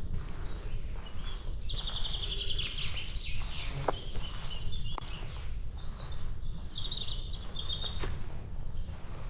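Songbirds singing, with a fast rattling trill from about two to three and a half seconds in and another shorter trill near eight seconds, over a steady low wind rumble on the microphone and the walker's regular footsteps.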